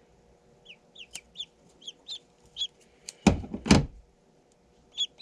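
Duckling peeping in short calls that each drop in pitch, a few a second, while held in the hand. About three seconds in comes a loud double knock or rustle of handling, the loudest sound.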